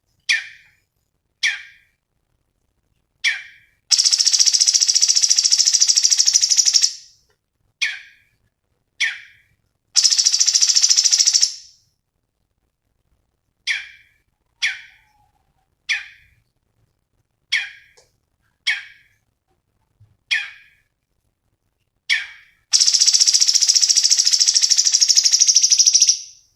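Cucak cungkok bird song: short, sharp chirps repeated at intervals of a second or two, broken three times by long rapid high trills of about three seconds each.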